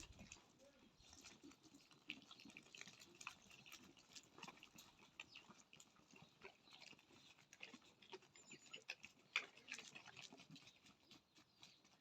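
A goat herd heard faintly, with many scattered short clicks.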